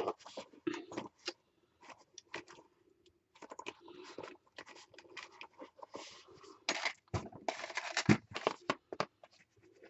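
Craft supplies being handled and sorted through on a tabletop: irregular rustling, light clicks and scraping.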